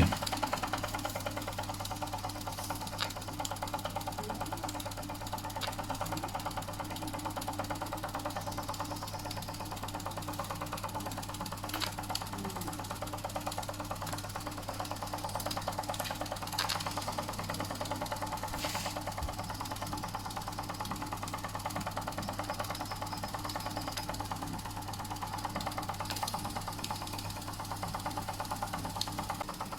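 Doll & Co 339/2 model stationary steam engine running steadily under steam: a fast, even mechanical clatter from the little engine turning over, over a steady low hum, with a few sharp clicks.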